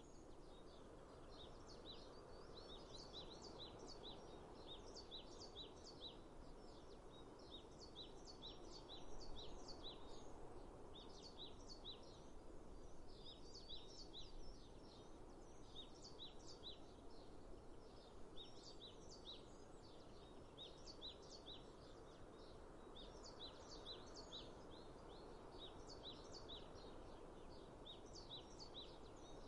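Small birds chirping in quick, repeated short notes without pause, faint, over a steady hiss of outdoor background noise.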